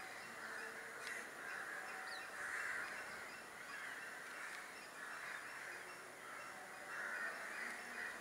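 Birds giving harsh, repeated calls, one about every second or so.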